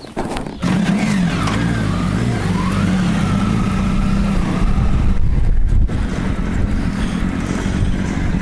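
Motorcycle engine starting with a sudden catch about half a second in, blipped up and down a few times, then running steadily at a fast idle.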